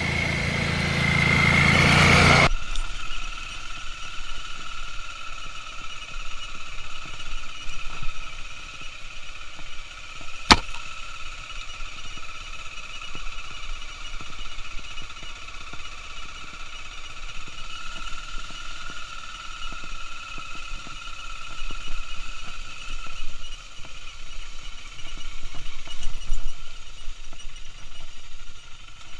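Dual-sport motorcycle riding: engine and wind noise are loud for the first two seconds or so, then cut off suddenly to a quieter, steady engine hum. A single sharp click comes about ten seconds in.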